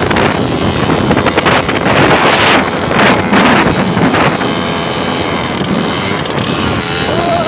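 Wind buffeting the microphone on a moving motorcycle, with the ride's vehicle noise underneath; the rushing gets louder in surges about two and three seconds in.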